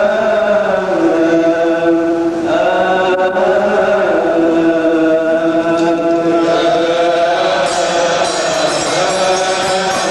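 A male voice chanting a long, melismatic Coptic liturgical hymn phrase, holding each note for a second or two before moving to the next. A rhythmic metallic jingling of liturgical percussion joins about eight seconds in.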